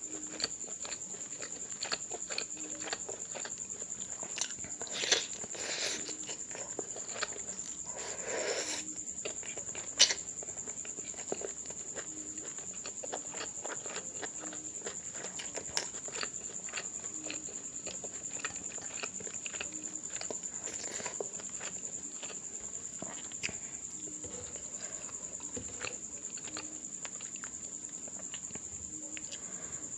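Close-up eating sounds of someone chewing chicken and pork curry and cauliflower rice eaten by hand: many small mouth clicks and chewing noises throughout, with one sharp click about ten seconds in. A faint steady high-pitched whine runs underneath.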